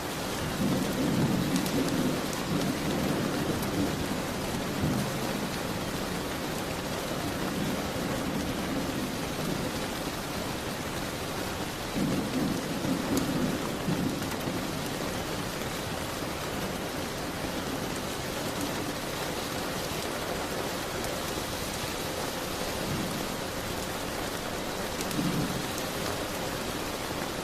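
Steady heavy rain with low thunder rumbles that swell up three times: about a second in, around the middle, and near the end. Faint crackles of a wood fire sit under the rain.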